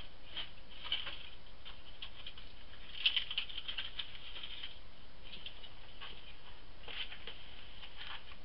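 Light, irregular scraping and tapping of a metal ash shovel scooping wood ash out of a stove's firebox, busiest about three seconds in.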